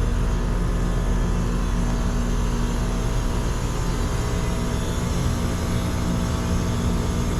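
Outdoor air-conditioner condensing unit running steadily, its compressor and fan giving a constant hum, while the system is pumped down to draw the refrigerant back into the condenser.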